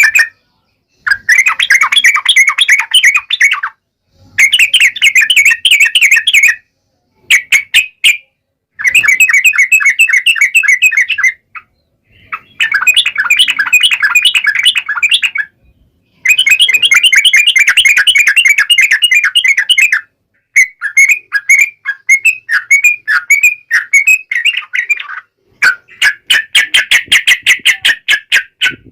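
Yellow-vented bulbul (trucukan) singing: about eight bursts of fast, bubbling chatter, each two to four seconds long, separated by short pauses.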